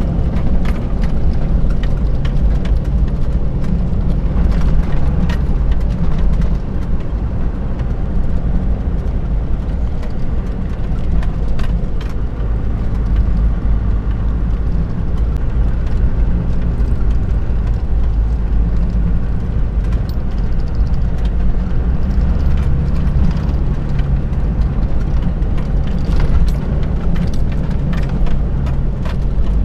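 Engine drone and road noise inside a Toyota Land Cruiser's cabin as it drives steadily. Occasional brief knocks and rattles come through.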